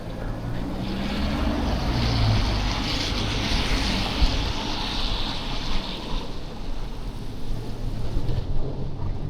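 Traffic on a slushy, snowy city street: the tyre hiss of a passing vehicle on wet slush swells and fades over a few seconds, over a low steady engine hum.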